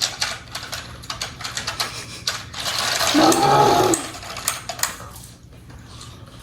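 Small plastic toy-train playset parts clicking and rattling in quick, uneven clicks, with a child's short wordless vocal sound about three seconds in.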